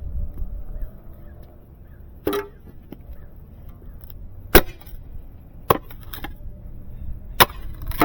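Mini pick axe chopping into frozen ground: about five sharp blows, one to two seconds apart.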